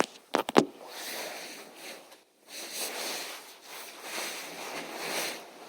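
A few sharp clicks, then soft breathing noises close to the microphone, swelling and fading about four times.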